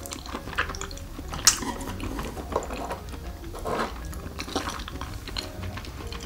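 Close-miked chewing of a mouthful of fried egg: wet, irregular mouth clicks and smacks, with one sharper click about a second and a half in.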